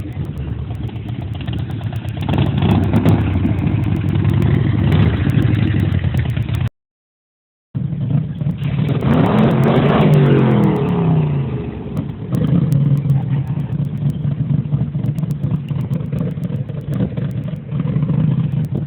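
Car engines running, with one louder engine whose pitch falls away about nine to eleven seconds in. The sound cuts out completely for about a second near the middle.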